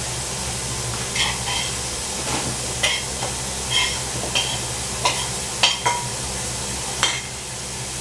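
Dishes and utensils clinking and knocking as a kitchen is tidied: about nine separate sharp clinks, some of them ringing briefly, over a steady hiss.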